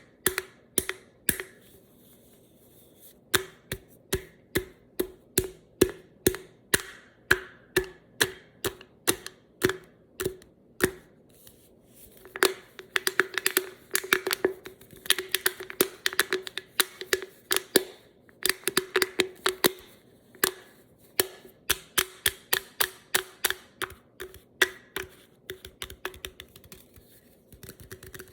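Tapping on an aluminium drink can: sharp taps, each with a short metallic ring, at about two a second, breaking into quicker flurries of taps in the middle.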